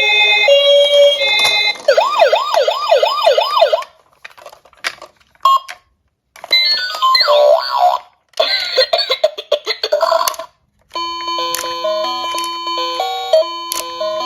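Electronic emergency-siren sound effects: stepping tones, then a fast rising-and-falling wail, then broken bursts with short silences and clicks. From about eleven seconds in, a chiming electronic tune takes over.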